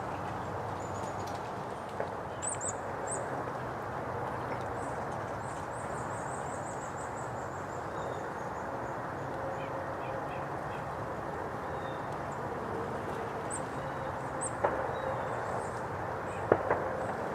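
Small birds giving thin, high-pitched calls over a steady background hiss, including a quick series of short notes falling gently in pitch about five seconds in. A few sharp clicks near the end.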